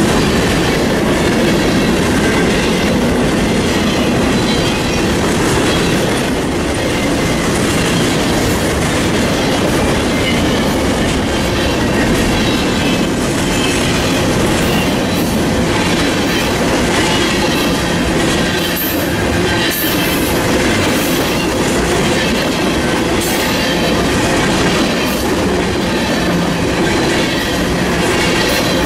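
Freight train of boxcars and tank cars rolling past at close range, a steady rumble with wheels clicking over the rail joints. Brief high squeals from the wheels come in the second half.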